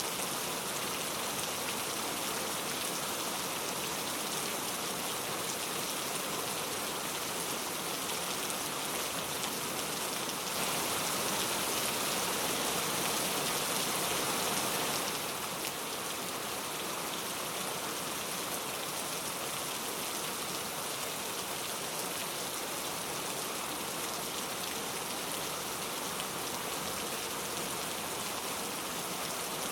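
Heavy rain falling steadily, a continuous wash of drops on surfaces with no thunder. It swells slightly for a few seconds about a third of the way in, then settles back.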